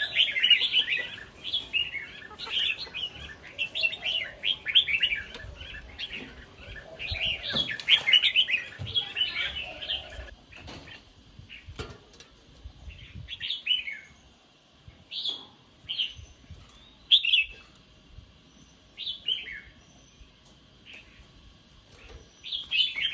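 Caged red-whiskered bulbuls chirping: a dense run of quick, chattering calls for about the first ten seconds, then single calls spaced a second or two apart.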